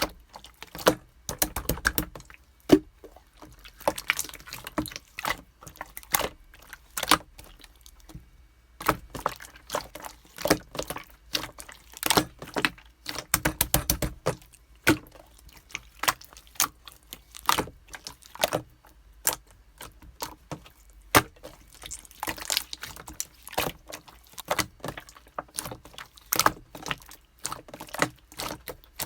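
Red-tinted clear slime being squeezed and worked by hand, giving a dense, irregular run of sharp sticky clicks and small pops.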